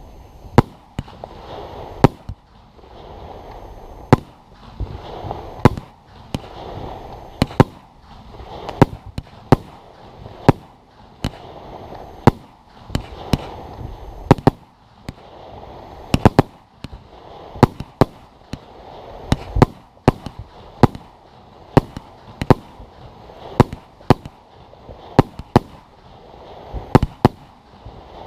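Fireworks display: a steady run of sharp bangs from shells bursting, about one to two a second and unevenly spaced, some much louder than others, over a rushing noise that never stops.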